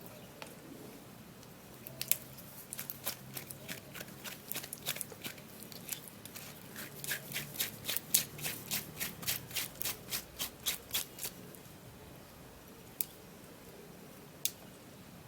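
Fresh aloe vera gel being scraped out of the opened leaf in a run of short scraping strokes, sparse at first, then a quick regular series of about four a second, ending with two lone clicks near the end.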